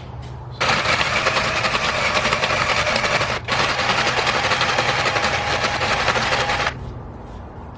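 Drill spinning a grinding bit against the curbed aluminum rim edge, a steady whirring grind. It starts about half a second in, pauses briefly in the middle, and stops near the end.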